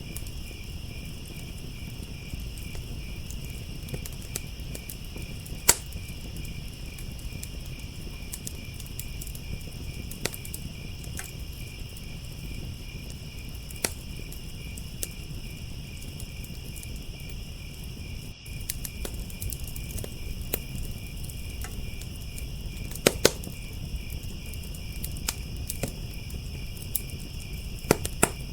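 Crickets chirping in a steady, continuous high trill, over a wood fire crackling with scattered sharp pops and a low rumble. The loudest pops come about six seconds in, twice around two-thirds of the way through, and near the end.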